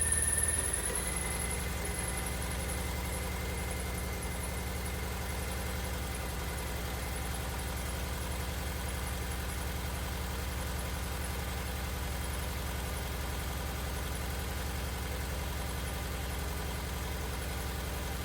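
A 2002 Honda Civic's four-cylinder engine just after starting, flaring briefly and then settling into a steady idle. A thin high squeal at the start fades within the first second or two. The idle is not perfectly smooth but no longer the hood-shaking, popping misfire, now that it has new plugs and the oil-filled spark plug tubes are sealed with a new valve cover gasket set.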